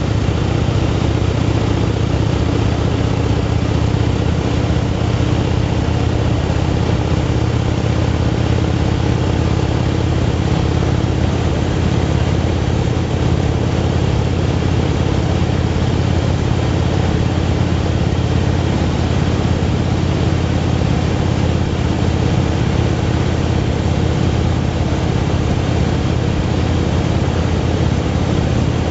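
Motorcycle engine running at a steady cruise, with a constant rush of wind and road noise.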